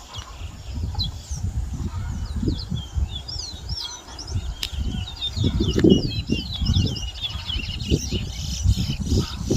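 Caged towa towa seed finches singing in a song competition: quick, repeated high chirping notes, sparse at first and then a dense, continuous run of song from about halfway in. A low, uneven rumble lies underneath.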